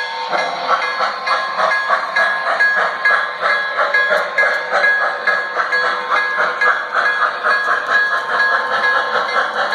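Model train running on the layout, with an even rhythmic clatter of about three beats a second.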